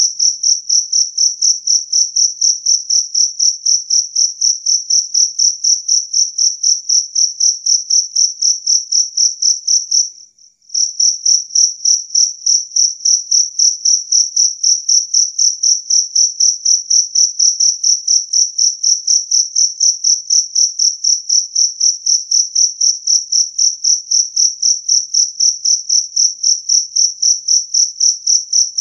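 Jangkrik kalung field cricket chirping loudly and clearly in a steady run of about three to four high chirps a second, with one brief break about ten seconds in.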